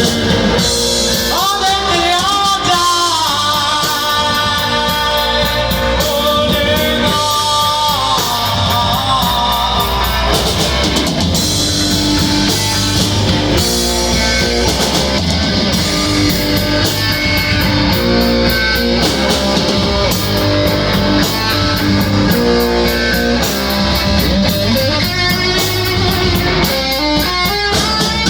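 Rock band playing: electric guitar over a drum kit, with a voice singing.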